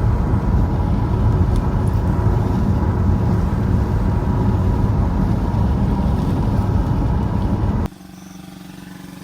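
Loud rumble of a car on the move. It cuts off abruptly about eight seconds in to a much quieter, steady vehicle hum.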